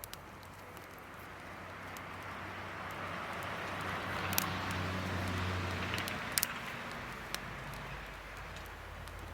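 A vehicle passing by: a low engine hum and road noise that swell over several seconds, peak about halfway through and fade away. A few sharp clicks sound over it.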